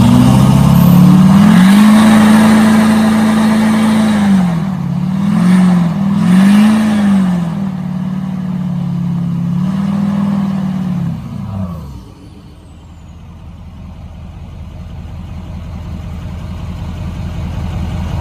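A truck engine revved hard and held at high revs, dropping and climbing twice in quick succession, then held high again before being let down about two-thirds of the way through. After that comes a quieter steady running sound that slowly grows louder.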